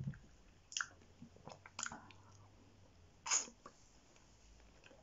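A person chewing a mouthful of saucy chicken massaman curry close to the microphone, with a few sharp wet smacks and clicks. The loudest comes a little over three seconds in.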